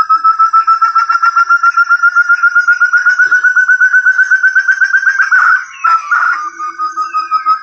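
Lure call of the puyuh hutan ('burung terung'), a forest partridge: a fast run of whistled notes, about eight a second, climbing slowly in pitch, breaking off about five and a half seconds in and starting again shortly after.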